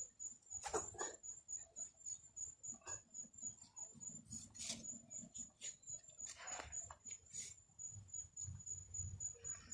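Scattered faint clinks and knocks of hand tools and a truck tire being worked after the bead has been broken, with a couple of sharper clanks. Under them runs a steady high-pitched chirp that pulses about four times a second.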